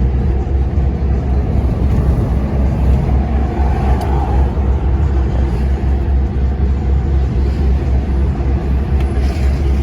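DAF dump truck's diesel engine running steadily under way, a loud, even low drone with road noise.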